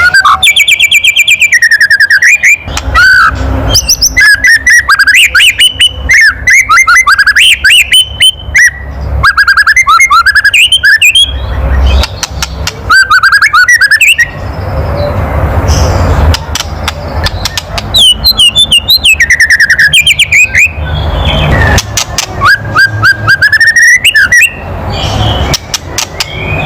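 White-rumped shama (murai batu) giving its harsh 'kretekan' rattle: runs of rapid dry clicking broken by short whistled notes and glides. This is the agitated chatter that bird keepers play to provoke a shama into singing.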